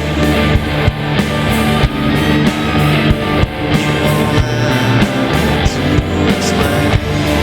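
Instrumental passage of a rock song: a band led by guitar, with drums keeping a steady beat and no vocals.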